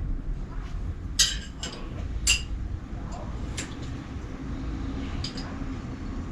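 A few sharp metallic clinks of tools or parts knocked together, two louder ones a second or so apart near the start, then fainter ones, over a low steady rumble.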